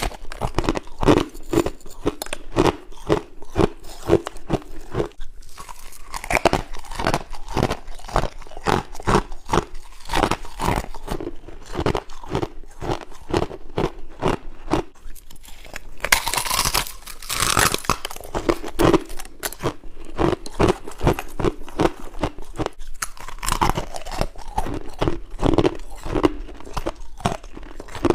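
Close-up chewing of frost and ice in the mouth: a steady run of crisp crunches, a couple or more a second, with a harsher, brighter stretch of crunching about sixteen seconds in, likely a fresh bite.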